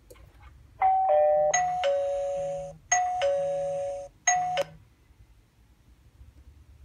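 Two-tone ding-dong doorbell chime, a higher note then a lower one, sounding about three times as an incoming visitor alert from a video doorbell, cut off partway through the last ding. A low buzz pulses under the chime.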